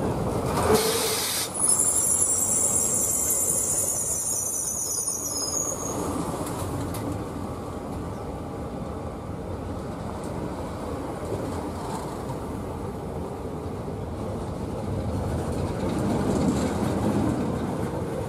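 SNCF Régiolis TER multiple unit running slowly past, with several high-pitched wheel squeals for the first few seconds that fade out about six seconds in, then a steady rumble of the passing train.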